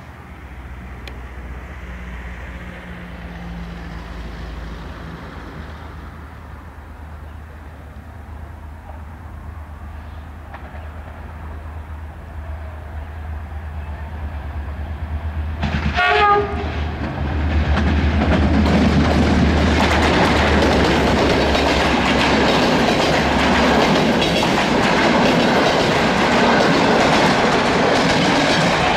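A CFR Călători locomotive approaches with its engine rumbling low and steady, sounds one short horn blast about halfway through, then passes close by with loud wheel rumble and the clickety-clack of its passenger coaches over the rail joints.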